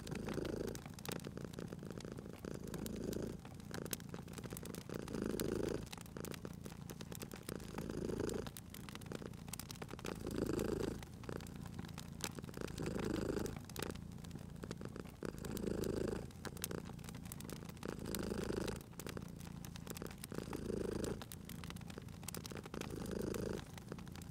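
Domestic cat purring steadily, the purr swelling and easing with each breath about every two and a half seconds, over the scattered pops and crackles of a wood fire.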